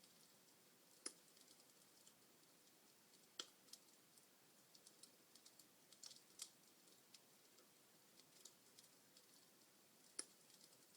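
Wood fire in a fireplace crackling faintly: scattered small snaps and four louder pops over a soft steady hiss.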